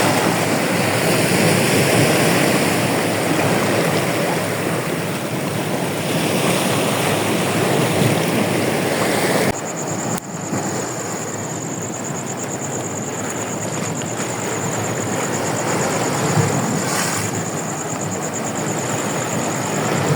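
Ocean surf washing in a steady rush, with wind on the microphone. After an abrupt cut about halfway through, a thin, high, steady whine runs above the surf.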